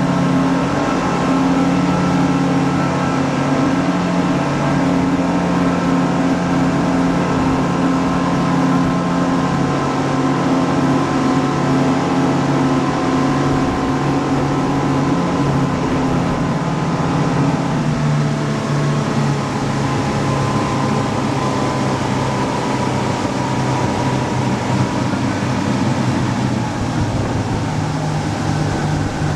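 Boat engine running steadily. Its note drops slightly a little past halfway.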